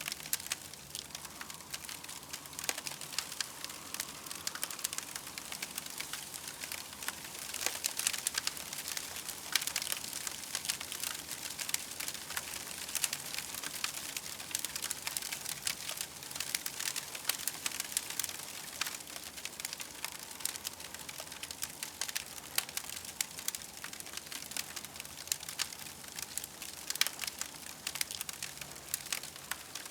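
Campfire crackling steadily, with many small pops and snaps over a soft hiss.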